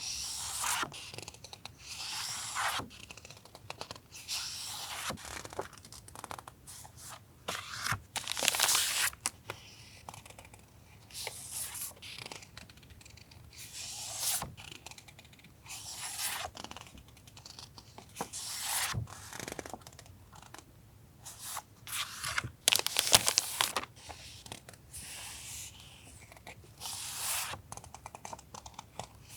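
Sheets of paper being handled, slid and flipped, making short rustling, scraping swishes at irregular intervals, with a few light taps.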